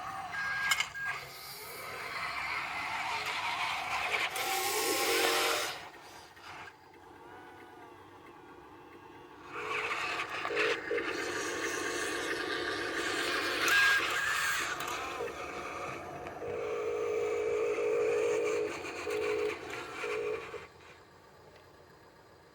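Dump truck running, with a steady hum and a broad hiss over it. The sound drops away about six seconds in, returns about ten seconds in, and falls off again near the end.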